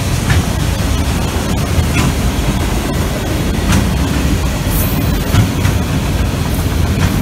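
Freight train of autorack cars rolling past: a steady loud rumble and rattle of steel wheels on the rails, with a few brief high squeaks.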